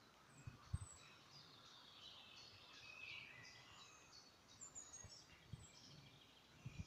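Faint birdsong: many short high chirps and a brief trill from several birds. A few soft low thumps, about a second in and again near the end, come from the phone being handled.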